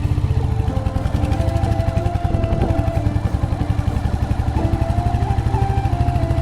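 Royal Enfield Hunter 350's single-cylinder engine running steadily under way, its exhaust pulsing in a fast, even beat, with background music playing a slow melody over it.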